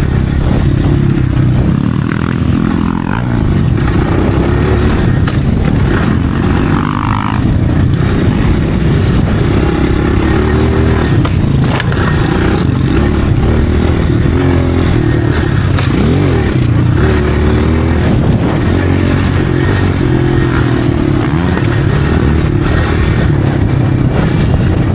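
Motocross dirt bike engine being ridden, its pitch rising and falling over and over as the throttle opens and closes, with a few sharp clicks or knocks along the way.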